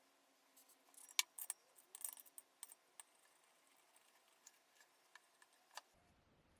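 Light metallic clicks and clinks of tools or small parts being handled: a quick flurry in the first half, then a few single clicks.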